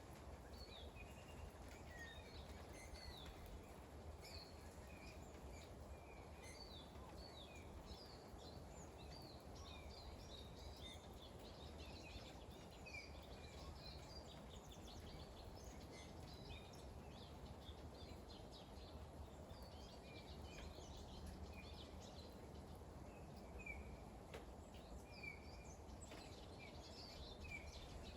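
Small birds chirping on and off in short, high calls, faint over a steady low background hiss.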